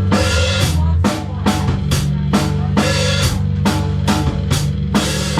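Live band music: a drum kit keeping a steady beat over sustained low notes, with no singing.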